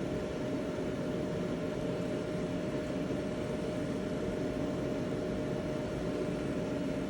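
Steady machine hum with one constant tone, unchanging throughout.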